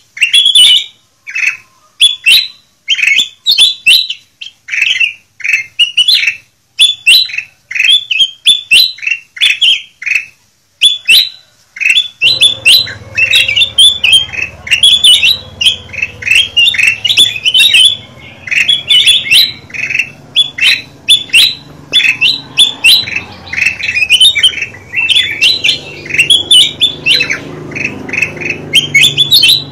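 Kutilang emas bulbul calling in a rapid string of bright, squawky chirps, several notes a second. Partway through, a steady low hum comes in underneath.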